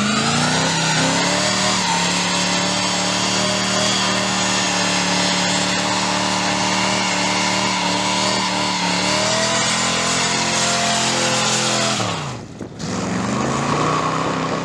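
1986 Chevrolet C10 pickup's engine running hard, its pitch climbing as it revs up and then holding steady at high revs. About twelve seconds in the engine note drops off sharply, then climbs again.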